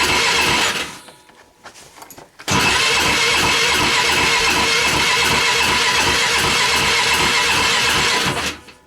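Electric starter cranking the single-cylinder engine of a 2010 Polaris Sportsman 500 HO ATV in deep cold: a steady whine with rhythmic chugging, and the engine does not catch. It cranks for under a second, stops for about a second and a half, then cranks again for about six seconds and stops near the end.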